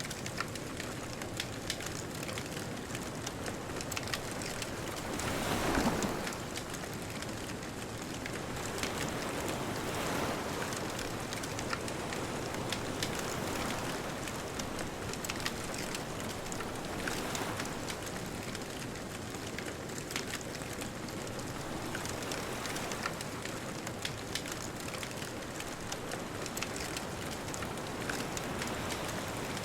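Bonfire crackling with many small pops over a steady wash of distant ocean surf; a wave swells up about six seconds in, the loudest moment, and softer ones follow.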